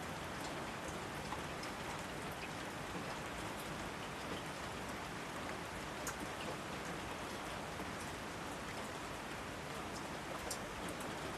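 Steady rainfall, a continuous hiss with individual drops ticking sharply here and there.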